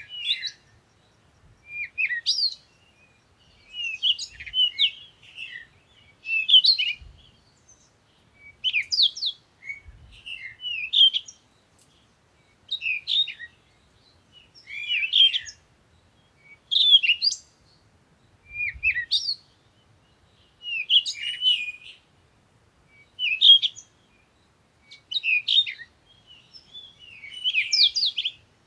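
A songbird singing short phrases of quick, high chirps, repeated about every two seconds.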